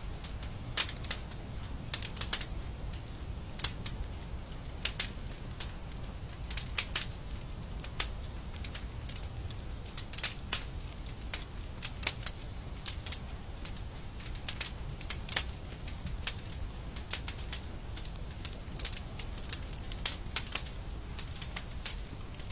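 Wood fire crackling: irregular sharp pops and snaps, several a second, over a steady low rumble of the burning.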